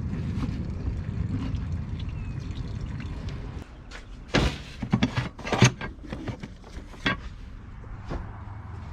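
A steady low rumble for the first few seconds, then a quick cluster of sharp clicks and knocks.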